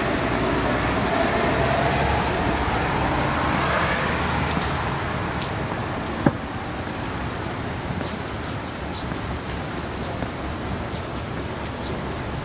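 Steady rain falling on wet paving, with many individual drops ticking close by. A low rumble is mixed in over the first few seconds and then fades, and there is a single sharp click about six seconds in.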